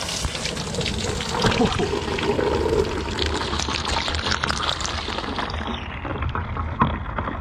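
Old engine coolant gushing out of a radiator's hose outlet, splashing into a drain pan and spraying around it. The splashing thins out near the end.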